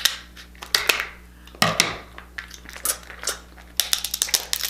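Crab shell being cracked and snapped apart by hand: a series of irregular sharp cracks and crunches, bunched into several clusters.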